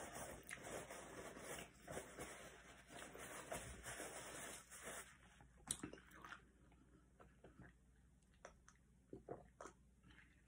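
Faint chewing and mouth sounds of a person eating. They thin out after about five seconds to a few soft clicks.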